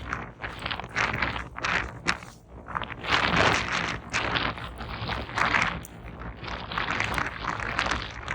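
Footsteps of a person walking on a trail, at a steady walking pace, with strong wind rumbling on the microphone underneath.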